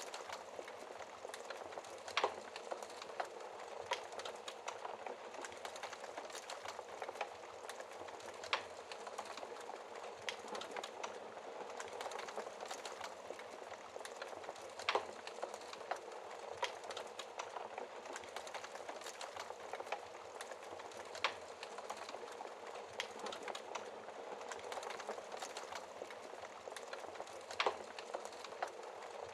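Wood fire burning in a fireplace, crackling steadily, with a sharp louder pop every few seconds.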